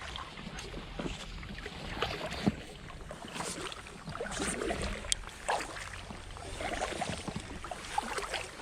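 Kayak paddling on calm water: paddle blades dipping and splashing with drips between strokes, and a sharp knock about two and a half seconds in.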